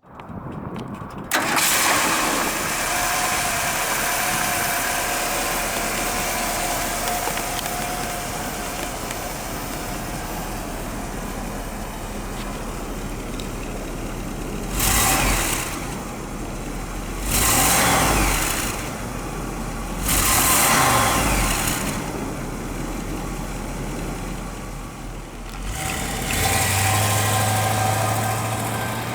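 1967 Lincoln Continental's 462 V8 starting and settling into a steady idle, then blipped up briefly three times and rising again near the end.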